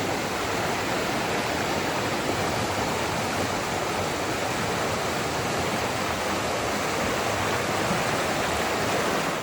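Steady rushing of creek water, cutting off suddenly at the very end.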